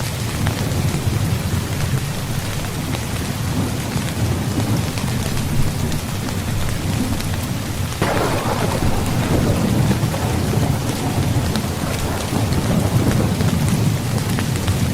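Steady heavy rain with low rumbling thunder. About eight seconds in, a sudden thunderclap cracks and rolls on as a rumble for several seconds.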